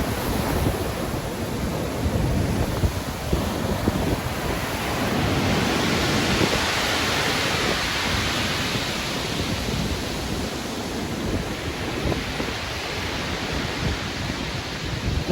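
Stormy sea: surf washing continuously, with a wave building to a loud hissing break about six seconds in and fading after, over a low gusty rumble of wind.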